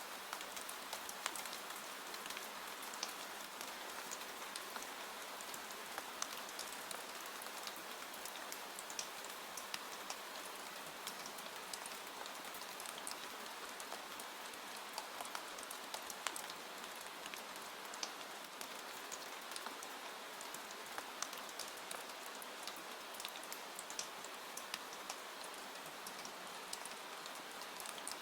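Steady rain: an even hiss with many separate drops striking as sharp little ticks scattered through it.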